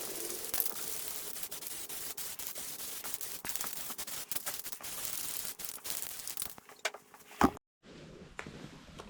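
Electric arc welding on a tractor exhaust muffler: a steady crackle with rapid pops, which stops about six and a half seconds in. A single sharp knock follows shortly after.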